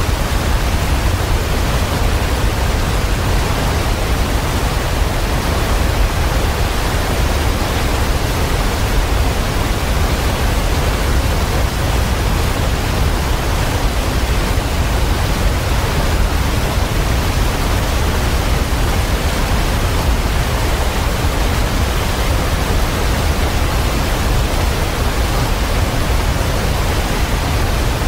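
A waterfall pouring, a steady, unbroken rush of water that is heaviest in its low rumble.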